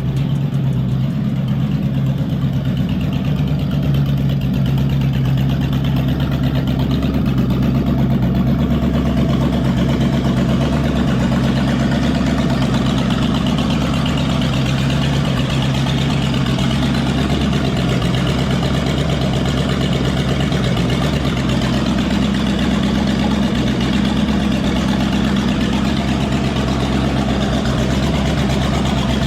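Cadillac V8 engine on a run stand idling steadily through open exhaust, its level even throughout.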